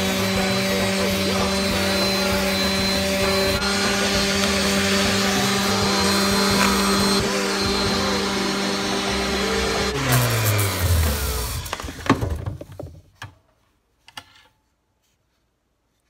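Handheld electric sander running steadily against a wooden spoon, a constant motor hum with a rasping edge. About ten seconds in it is switched off and winds down, its pitch falling, followed by a few knocks and then near silence.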